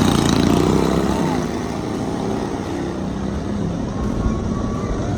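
Racing lawnmower engines running. A loud one drops in pitch and fades in the first second, and engine noise carries on, along with voices in the crowd.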